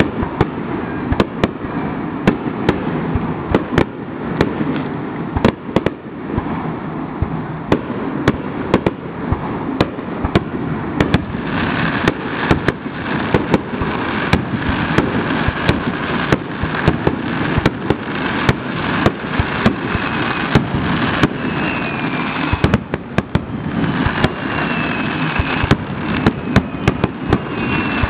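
Fireworks going off close at hand: a steady hiss and crackle broken by many sharp pops and bangs at uneven intervals, with a few faint whistles in the second half.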